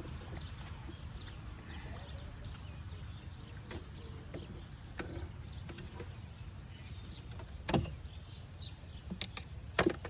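Several sharp knocks: one about three quarters of the way in and three close together near the end. Under them is a steady low rumble, with faint bird chirps scattered throughout.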